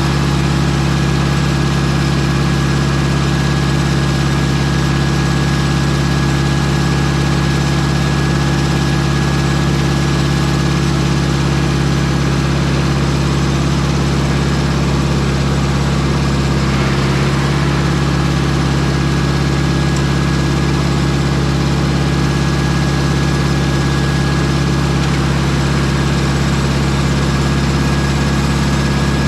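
Engine of a Mobile Dimension circular-blade sawmill running at a steady speed, with a brief slight change about seventeen seconds in.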